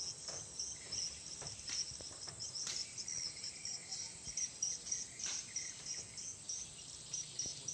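Insects chirping, an even high-pitched pulsing several times a second, with a few faint clicks.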